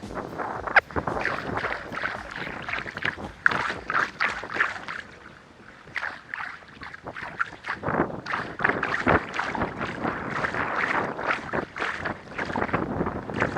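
Kayak on the water: irregular splashing and sloshing of paddle strokes, easing off briefly in the middle.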